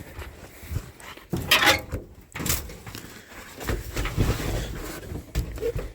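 Knocks and scrapes of hands working controls in a truck cab, with a brief scraping rasp about one and a half seconds in. The engine is not running.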